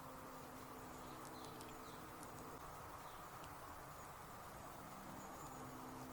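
Flying insects buzzing faintly and steadily. The buzzing hum fades in the middle and comes back near the end, with a few faint high ticks.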